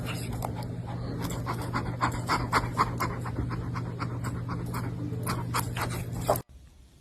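A pet animal making quick, short repeated breathy sounds over a steady low electrical hum. The sounds come fastest about two to three seconds in, and everything cuts off suddenly about six and a half seconds in.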